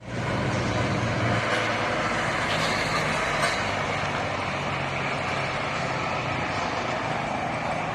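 Road traffic with a truck engine running and passing, the engine hum strongest about a second in.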